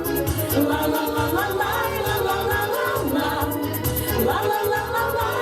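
A bouncy pop song played at full volume: a melody line over a steady bass beat and a quick, even hi-hat ticking.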